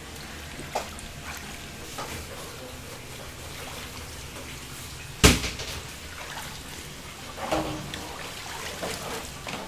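Kitchen work noise: a steady hiss like running water, with a few light knocks and clatters and one sharp, loud bang a little over five seconds in.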